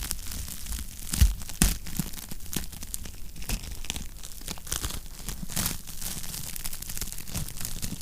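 Wood fire crackling in a fireplace: a steady run of small irregular snaps and pops over a low rumble, with two louder pops a little over a second in.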